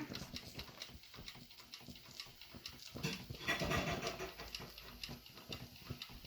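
Fast irregular ticking and sputtering from a heating model steam engine, its flywheel not yet spinning. About three seconds in, a louder pitched sound lasts about a second.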